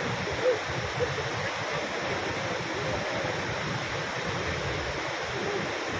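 Steady, even rush of Niagara Falls' water pouring over the falls, with a short louder note about half a second in.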